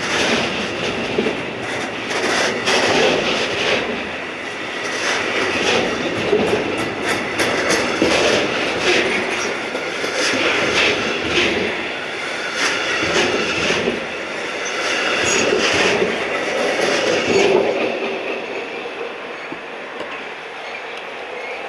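A train running through the station, its wheels clicking rapidly over rail joints, the sound dying away after about seventeen seconds.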